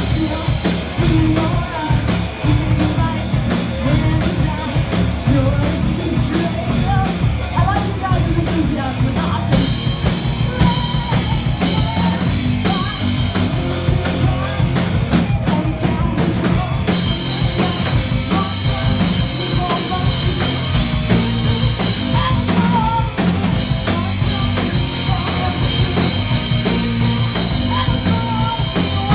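Live metal band playing loudly, with a busy drum kit under the guitars and bass.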